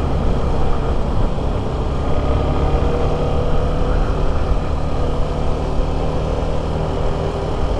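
Motorcycle engine running at steady, low revs, with a continuous low rumble.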